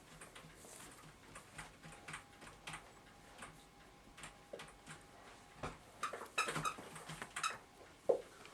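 Light clicks and taps of small metal clock-movement parts being handled and worked on, with a brief cluster of louder clatter about six to seven and a half seconds in.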